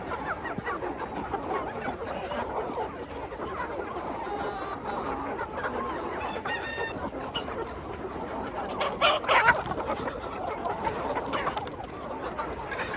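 A flock of free-range chickens clucking and peeping continuously, many birds calling over one another. A louder, short call stands out about nine seconds in.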